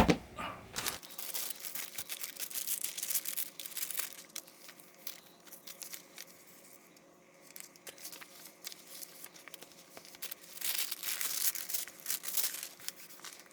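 Paper being handled, rustling and crinkling in two spells of short crackles with a quieter pause between.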